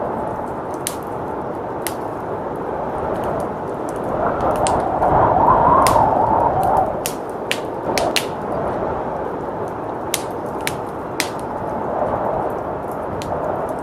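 Wood fire crackling with sharp, irregular pops over a steady rush of blizzard wind; the wind swells in a gust about midway through, then settles.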